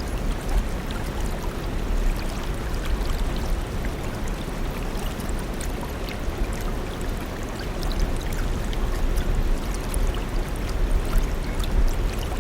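Steady rushing, splashing water, with faint scattered clicks.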